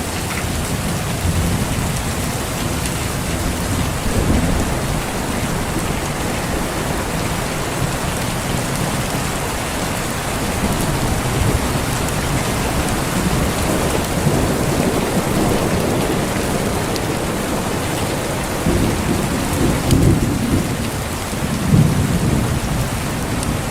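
Steady rain falling, with thunder rumbling low beneath it in rolling swells that are loudest about twenty seconds in.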